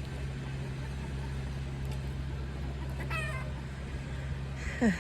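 Short animal calls over a steady low motor hum: a brief falling cry about three seconds in and a louder, lower one just before the end.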